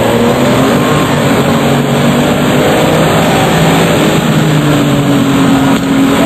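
RUF CTR Yellow Bird's twin-turbocharged flat-six engine running loud and hard, its pitch fairly steady and then sinking slowly over the last couple of seconds.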